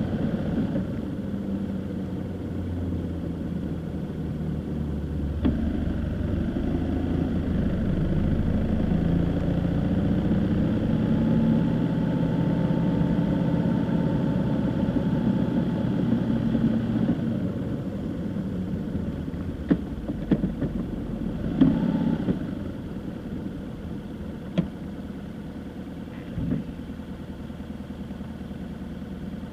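Car running along the road, a steady engine and road rumble that eases off about two-thirds of the way through. A few sharp knocks come near the end.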